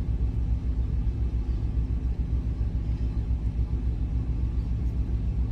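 A semi truck's engine idling, heard from inside the cab: a steady low rumble.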